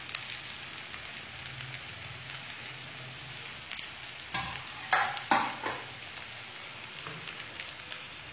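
Fried flattened rice, potato cubes and green peas sizzling steadily in a hot wok, with a few sharp scrapes and knocks of a metal spatula against the pan about five seconds in.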